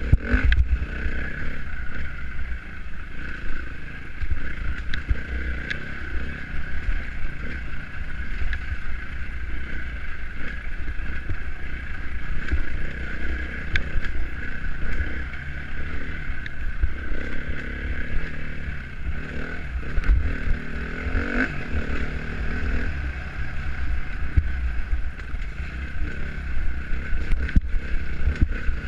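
Dirt bike engine running while the bike is ridden on an enduro trail, its pitch rising and falling with the throttle, over heavy wind rumble on the microphone.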